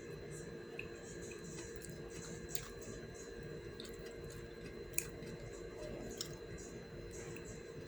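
A person chewing food close to the microphone, with repeated soft, wet mouth sounds and a few sharp clicks, the loudest about five seconds in. A steady low hum runs underneath.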